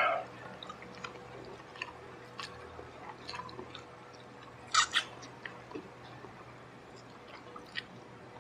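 A person chewing fried chicken, pulled off the bone by hand, close to the microphone: soft, faint chewing with scattered small clicks and a louder short cluster of mouth sounds about five seconds in.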